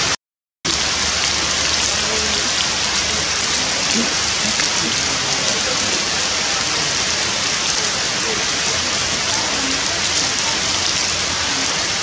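Steady rain falling, an even hiss of drops on leaves and surfaces. The sound cuts out completely for about half a second just after the start, then the rain resumes unchanged.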